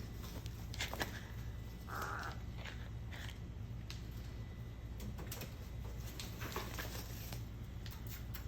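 A single short, harsh bird call about two seconds in, among scattered light clicks and taps, over a steady low hum.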